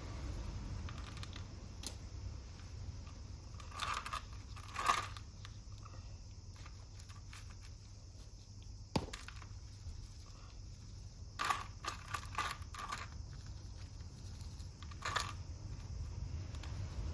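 Hands working with succulents and potting soil: scattered crunching and rustling sounds with a few sharp short knocks, in clusters about 4, 9, 12 and 15 seconds in, over a low steady hum.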